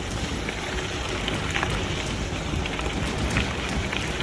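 Bicycle tyres rolling over wet gravel: a steady hiss with scattered small crackles of grit and stones, under wind rumble on the microphone.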